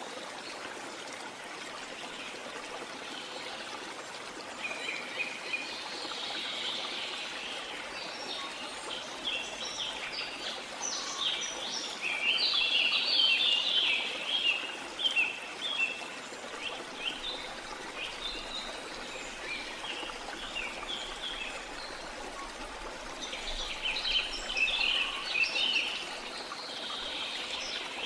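Rainforest ambience: steady running water with many birds chirping over it. The chirping grows thickest about halfway through and again near the end.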